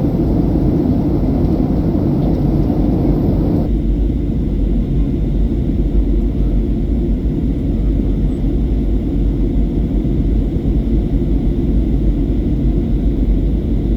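Steady low rumble of cabin noise inside a Boeing 737-800 in flight, descending toward landing. The higher hiss above the rumble drops away suddenly about four seconds in.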